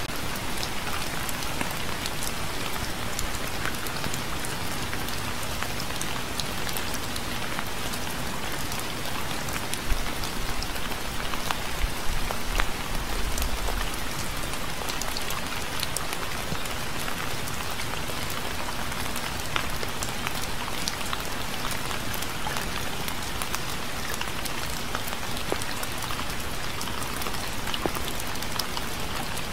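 Steady rain falling on a surface, a dense even hiss with scattered individual drops ticking through it. A brief low rumble comes about twelve seconds in.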